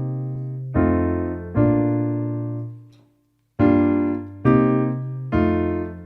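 Casio AiX keyboard played in split mode, acoustic piano chords over a low bass note. About five chords are struck and left to die away, with a short break about three seconds in.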